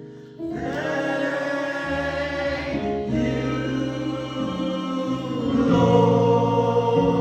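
Choir singing a gospel song over steady bass accompaniment, with the voices coming in loudly about half a second in after a brief lull.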